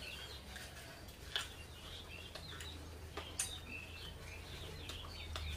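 Small birds chirping in the background, short high chirps scattered throughout, over a steady low hum. Two sharp clicks stand out, about a second and a half in and again about two seconds later.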